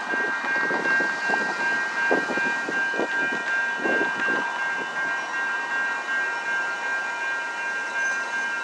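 Metro Blue Line light-rail train passing, its wheels clacking irregularly through the first half over a steady high-pitched whine that carries on throughout.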